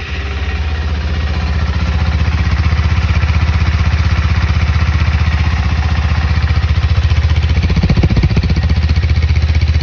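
KTM 390 Adventure's single-cylinder engine idling steadily on its stock exhaust with the baffle still in, just after start-up, with a brief swell about eight seconds in.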